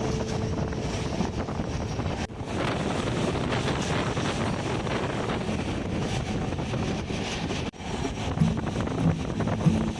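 Moving train heard from aboard: a steady rushing of the run with wind buffeting the microphone, broken by two abrupt cuts.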